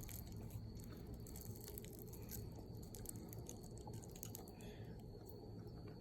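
Faint eating sounds: chopsticks picking at a grilled fish, with scattered soft clicks and taps over a low steady hum.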